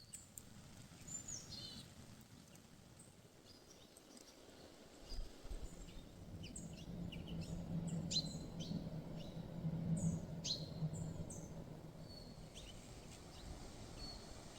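Small songbirds giving many short, sharp chirps and quick falling call notes, busiest in the middle, over a low steady hum that comes in about five seconds in and fades several seconds later.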